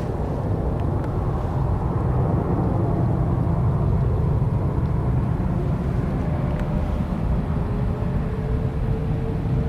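Steady low rumble of a jet airliner's engines, with a faint steady whine coming in near the end.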